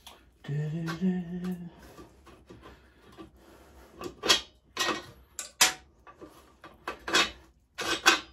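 A brief hum about half a second in, then a series of about six sharp metallic clinks as small metal parts and tools are handled during reassembly of a pit bike's swinging arm.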